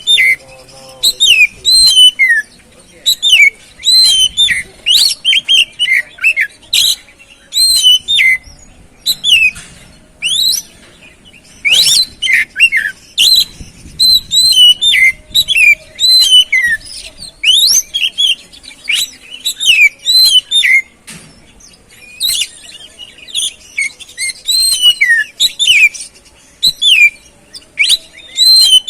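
Oriental magpie-robin (kacer) singing, a fast, varied string of loud whistled notes that slide up and down, in phrases broken by short pauses.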